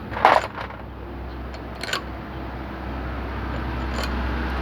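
A short scrape near the start and a sharp clink near the end, typical of work on a truck differential, over a low engine rumble that grows louder in the second half.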